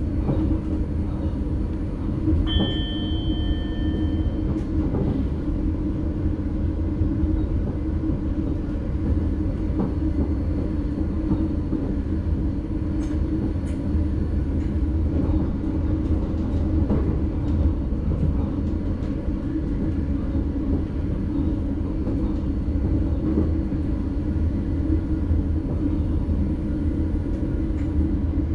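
Cab of an NS Sprinter Light Train (SLT) electric multiple unit running along the track: a steady rumble of wheels and drive. A brief high tone sounds about two and a half seconds in and lasts about two seconds.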